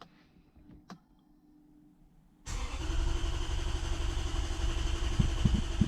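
Lexus 1UZ-FE V8 turned over on its starter motor without firing, cranking only to build oil pressure. After a faint click about a second in, the cranking starts suddenly about two and a half seconds in and keeps on steadily.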